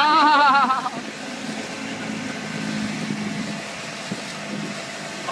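A person's loud excited yell with a fast-wavering pitch, lasting about a second, then a steady low rumble.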